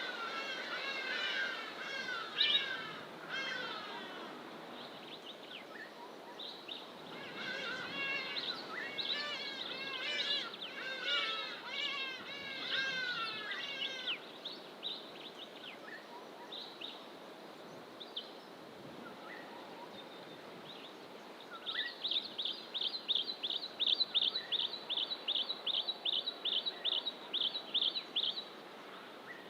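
Wild songbirds singing in dense fynbos bush: rich warbling phrases at the start and again for several seconds after a short gap, then scattered single calls. Near the end comes a fast series of identical high notes, about three a second, over a steady low background rush.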